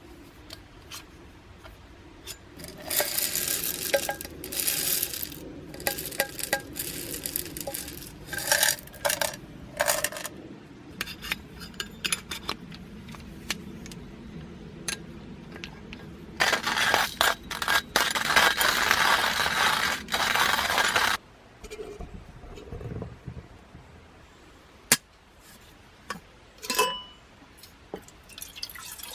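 Metal cookware being handled: repeated clinks and scrapes, with a steady rushing noise lasting several seconds past the middle.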